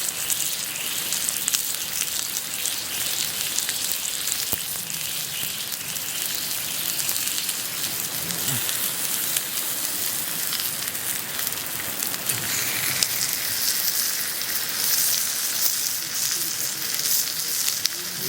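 Thick-cut pork belly (samgyeopsal) frying: a steady sizzling hiss with fine crackles running on without a break.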